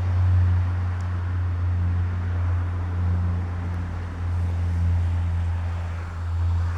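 Steady low mechanical hum of constant pitch, with an even rushing noise over it.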